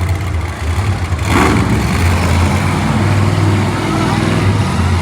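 Monster truck engine running loud, with a sudden louder burst about a second in.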